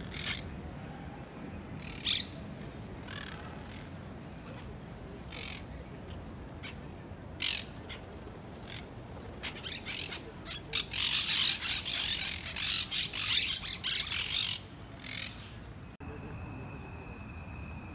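Birds squawking in short, harsh, high calls, scattered at first, then a rapid run of calls for a few seconds past the middle. Near the end the sound cuts abruptly to a steady high tone.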